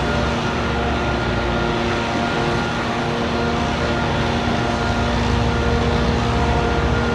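Steady street traffic noise with a constant droning hum running through it.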